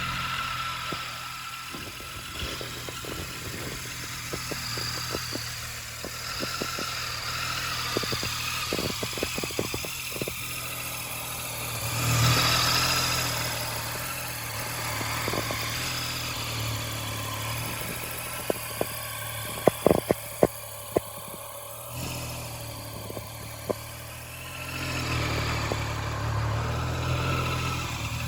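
Triumph Street Triple RS 765's three-cylinder engine idling through an aftermarket Arrow exhaust. It briefly gets louder about twelve seconds in, and there are a few sharp clicks, the loudest about twenty seconds in.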